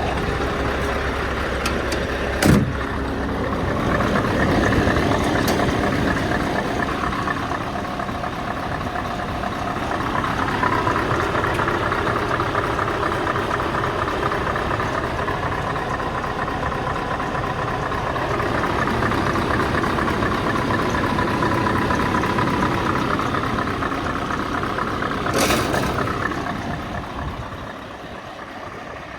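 Scania R520's V8 diesel engine running, its revs swelling and easing several times before dropping away near the end. A sharp click comes about two and a half seconds in, and a brief hiss just before the engine fades.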